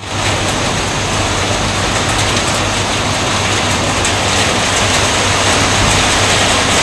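Heavy storm rain with strong wind: a loud, steady rush of noise with a low rumble beneath it.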